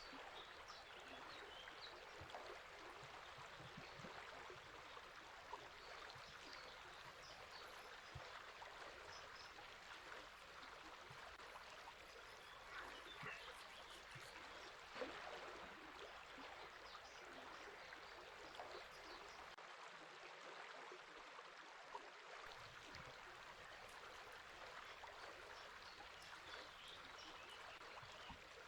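A river flowing steadily and faintly, with small, scattered bird chirps over the water.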